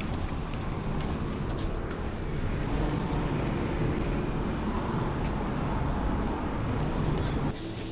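Steady road traffic noise with a low rumble, which changes abruptly near the end.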